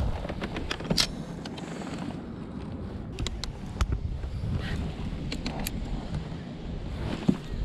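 Wind buffeting the microphone on a kayak out on the water: a steady low rumble with a few sharp clicks and knocks from the boat and gear, about a second in, around three and a half seconds, near five and a half seconds, and near the end.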